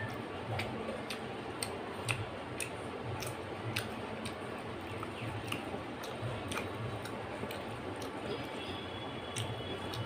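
Close-up eating sounds: soft clicks from chewing, coming about twice a second over a steady hiss.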